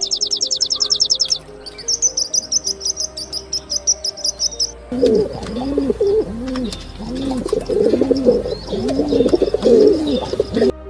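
Birds calling: a fast run of high chirps, then a stretch of higher chirping, then from about halfway a series of low rising-and-falling calls, roughly one a second, over faint background music.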